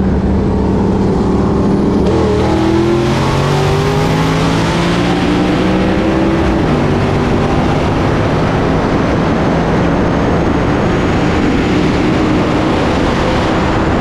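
Performance car engine at full throttle: it holds steady for about two seconds, then revs up through the gear, drops sharply at a manual gear change about six and a half seconds in, and pulls again as wind and road noise build.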